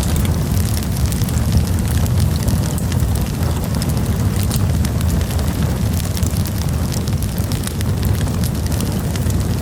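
Campfire burning, with a steady low rumble under frequent small, irregular crackles and pops.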